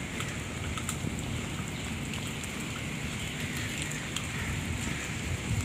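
Steady heavy rain falling on a wet paved road and plants, with scattered close drops ticking and a low rumble underneath.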